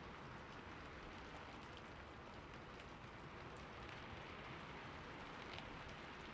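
Steady rain falling on a roof: an even hiss with many small drop ticks and no thunder.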